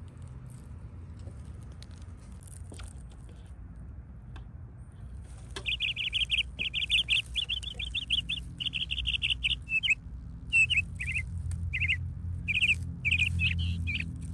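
A songbird singing: starting about five seconds in, a run of rapid trilled phrases, then separate short chirps, over a low steady rumble.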